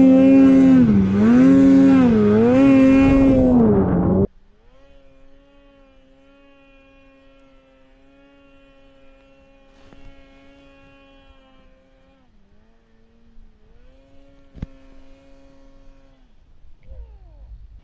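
Snowmobile engine running at high revs, its pitch dipping and rising with the throttle. About four seconds in it drops abruptly to a much quieter engine holding a steady pitch, which eases off twice and stops near the end.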